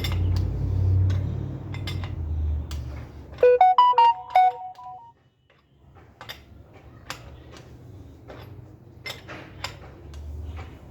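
Light metallic clicks and taps of tools and parts being handled during bicycle assembly. About three and a half seconds in, a phone sounds a short electronic tune of quick stepped beeps lasting about a second and a half.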